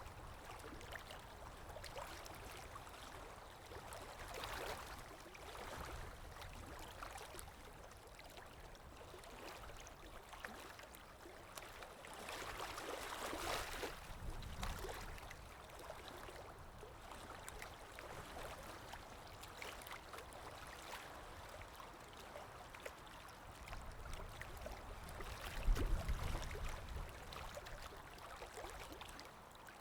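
Underwater water ambience: a steady wash of water noise that swells and fades, loudest about halfway through, with a low rumble near the end.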